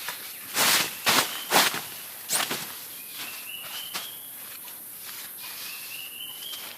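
Four or five crunching footsteps in the first two and a half seconds, then a quieter stretch with two faint high rising chirps.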